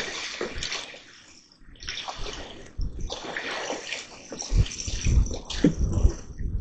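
Water splashing in irregular bursts: a hooked catfish thrashing at the surface as it is brought in to the bank.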